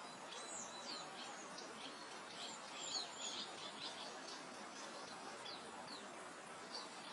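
Several small songbirds chirping, with many short high notes scattered through, busiest in the first few seconds, over a soft steady hiss of wind moving through meadow grass.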